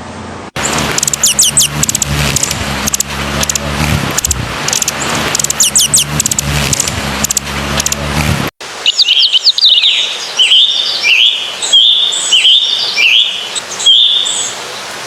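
Birds calling in two spliced recordings: high chirps and quick falling whistles over a steady low hum and hiss, then, about halfway through, a cleaner run of short repeated calls with downward-sliding whistles.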